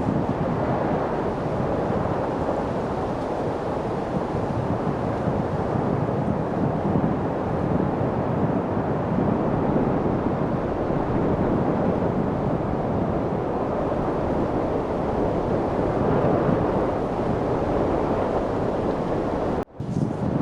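Steady wind noise, an even rushing hiss with no gusting, that cuts out for a split second near the end.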